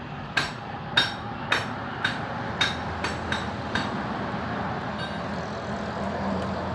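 Small metal parts clicking and tapping sharply, about eight times over the first four seconds, as a glass fuse is swapped out: a 1 A fuse replacing the blown 0.5 A one in a portable subwoofer. A steady background noise runs underneath.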